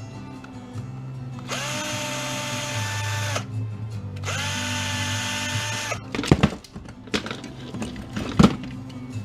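Cordless drill-driver run twice, each time for about two seconds, spinning up to a steady whine, as screws are backed out during disassembly. Two sharp knocks of parts or metal pieces follow near the end.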